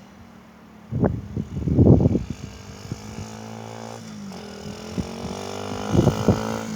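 SkyTeam Monkey mini motorcycle's small single-cylinder engine running while being ridden, with its pitch dropping about four seconds in, then holding steady. Wind gusts hit the microphone about a second in and again near the end.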